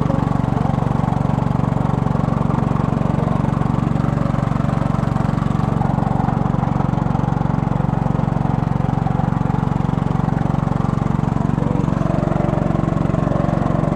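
Small boat's engine running steadily at a constant speed, with an even low drone and no change in pitch.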